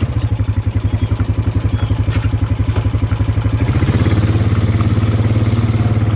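ATV engine running at low speed on a farm trail, a steady fast low pulsing note that picks up slightly about four seconds in, with a few light knocks from the machine.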